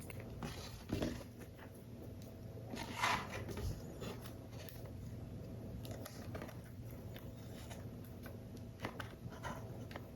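Paper and card being handled while a paper model is assembled: scattered soft rustles, taps and scrapes, the loudest about three seconds in, over a faint steady low hum.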